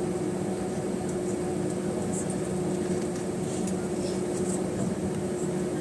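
Steady cabin drone inside the rear of an Airbus A320 on the ground, a broad hum with two steady low tones running through it, and a few faint light clicks.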